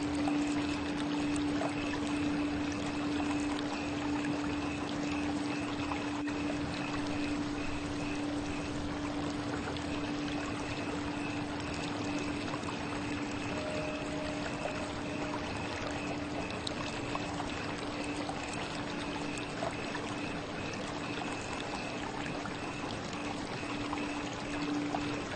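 Flowing water running steadily, with a sustained, unchanging low ringing tone held underneath from a Tibetan singing bowl. A faint higher note sounds briefly about halfway through.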